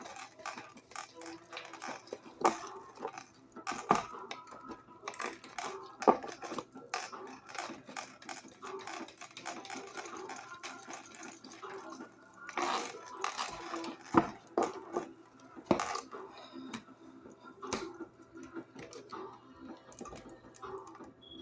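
Tarot cards being shuffled and handled: irregular clicks, taps and slaps of the card deck, several sharper ones around two, four, six, fourteen and sixteen seconds in.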